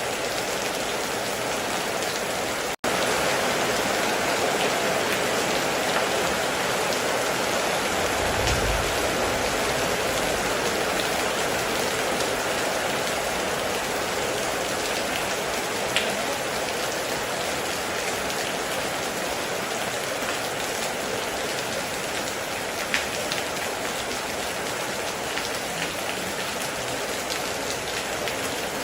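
Heavy rain falling steadily in an even hiss, with a few faint drop clicks. It cuts out for an instant near three seconds in, and there is a brief low rumble about eight seconds in.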